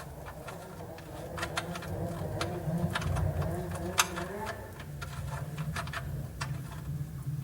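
Scattered short clicks and taps of hand tools as the oil drain plug is threaded back into the pan, with one sharper click about four seconds in, over a steady low hum.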